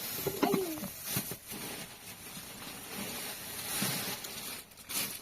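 A domestic cat meows once, briefly, about half a second in, over a steady background hiss, with a few faint low thumps later on.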